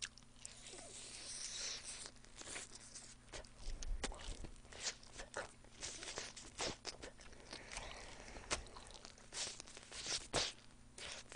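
Close-miked chewing of a fried chicken wing: quiet, irregular crunches and clicks from the mouth.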